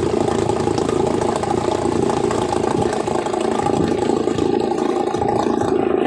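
Yamaha 2 hp two-stroke outboard motor idling steadily while it warms up.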